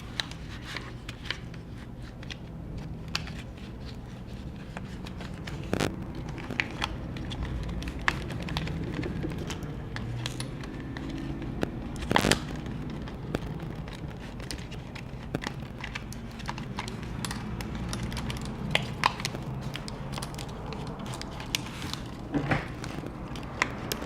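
Plastic pry card being worked under a glued-in MacBook Pro battery: faint scraping and crackling as the adhesive gives, with scattered sharp clicks, the loudest about twelve seconds in. A low steady hum runs underneath.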